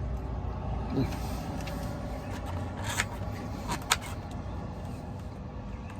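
Semi truck's diesel engine idling, a steady low rumble heard inside the cab, with a few sharp clicks and rustles from a plastic takeout food container about three and four seconds in.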